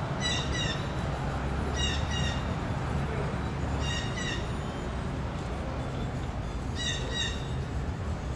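A bird calling in pairs of short notes, four times roughly two seconds apart, over a steady low outdoor rumble.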